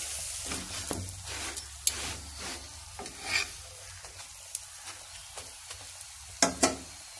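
Masala paratha sizzling in a hot pan, with repeated short scrapes and taps against the pan as it is turned and folded, and two louder knocks near the end.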